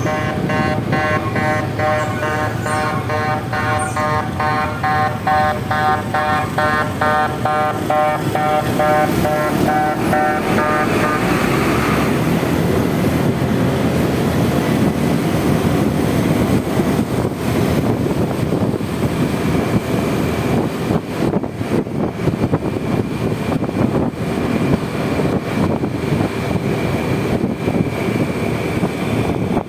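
Honda Vario 125 scooter riding through city traffic: steady wind, engine and road noise. For the first ten seconds or so a pitched tone beeps on and off about twice a second, then stops.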